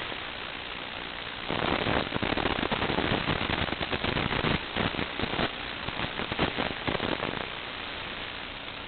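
Steady static hiss, with a louder stretch of crackling, sputtering noise lasting about six seconds from about a second and a half in.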